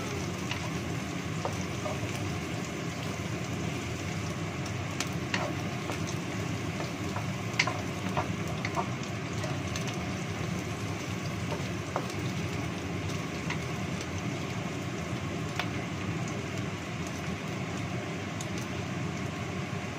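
Food stir-frying in oil in a nonstick wok: a steady sizzle, with a wooden spatula scraping and knocking against the pan every few seconds.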